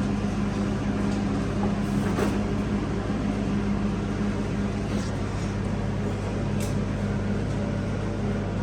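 A steady low hum, two tones held evenly throughout, over a faint hiss, with a few soft clicks.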